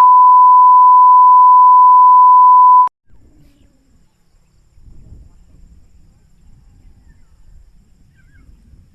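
A loud, steady electronic beep, one unwavering tone held for about three seconds and then cut off suddenly, followed by faint low background noise.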